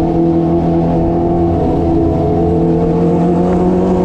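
Kawasaki ZX25R's 250 cc inline-four engine with an SC Project aftermarket exhaust, running at steady revs while ridden in gear, loud and even in pitch.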